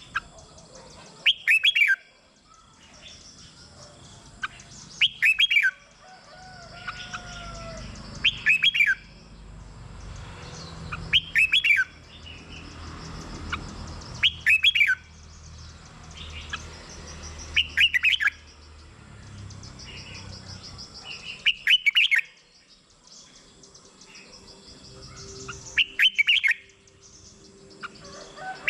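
Red-whiskered bulbul singing: short, loud, whistled phrases about half a second long, repeated every three to four seconds, about eight times. Fainter chirps sound between the phrases.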